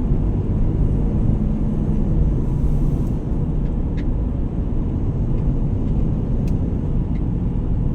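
Steady low rumble of a moving vehicle's engine and road noise, with a few faint clicks over it.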